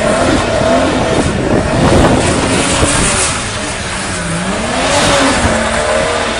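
A Subaru WRX STI with a swapped-in Toyota 2JZ straight-six engine is revving up and down repeatedly while doing donuts. The engine pitch rises and falls several times over a steady rush of tyre noise.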